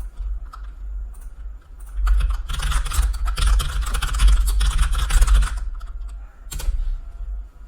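Typing on a computer keyboard: a few single keystrokes, then a rapid run of keystrokes lasting about three seconds, and one last key press near the end, over a low steady hum.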